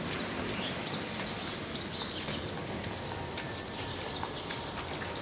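Several short, high bird chirps, irregularly spaced, over a steady background hiss of outdoor street ambience.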